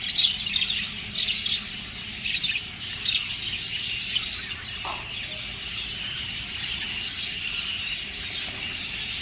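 Pet budgerigars chirping and chattering, a continuous stream of short high chirps.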